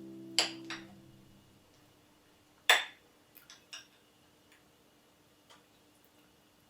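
Background music dying away, then a few sharp clicks and taps of hard objects: two close together near the start, the loudest about three seconds in, then several fainter ones.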